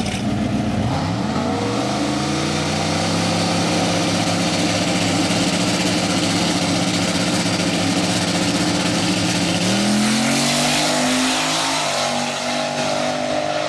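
Drag-racing car's engine at full throttle on a pass down the strip. Its pitch rises about a second in, holds steady for several seconds, then climbs again near ten seconds in.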